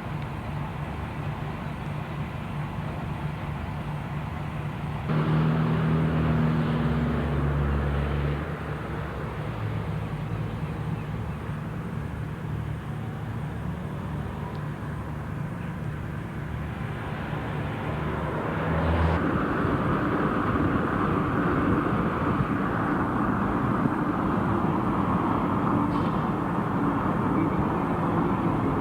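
Motor vehicle running and driving, with steady engine hum and road noise that grows louder about five seconds in, eases back a few seconds later, and rises again about two-thirds of the way through.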